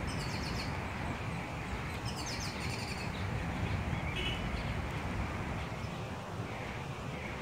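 Small birds chirping in short runs of quick high notes, twice in the first three seconds and once more about four seconds in, over a steady low outdoor rumble.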